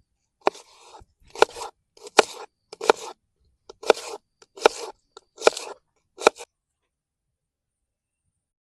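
A series of about eight crisp crunches, one roughly every three-quarters of a second, each a sharp snap with a short crackle, stopping abruptly about six and a half seconds in.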